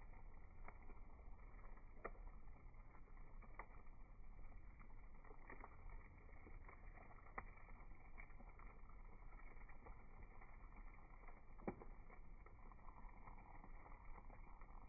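Wood fire crackling in a Uniflame firewood grill: faint, irregular sharp pops over a low steady hiss, with the loudest pop near the end.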